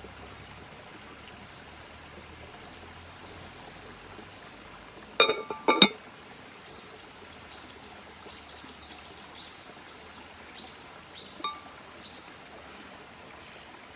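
Two sharp, ringing clinks about five seconds in, then a small bird chirping in quick short notes for several seconds, with one more faint clink among them.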